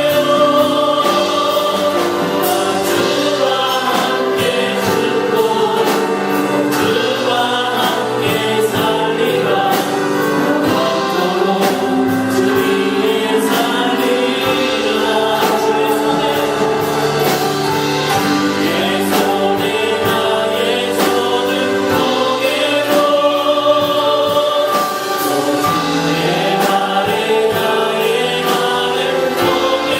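Worship music: a choir singing a Christian gospel song in sustained lines over instrumental backing with percussion hits.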